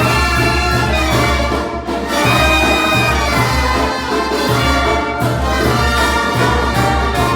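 Brass band playing loudly: trumpets and trombones holding chords over a bass line that pulses about twice a second.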